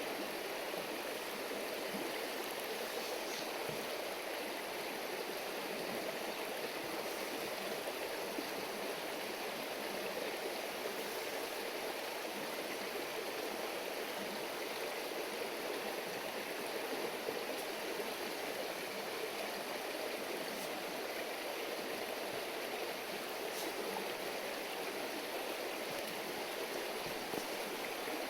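River water burbling steadily over a shallow bed, with a few faint clicks.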